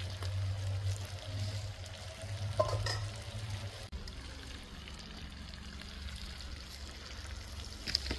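Chicken, potatoes and vegetables sizzling as they fry in a cast-iron kazan over charcoal, with a metal ladle stirring them in the first few seconds.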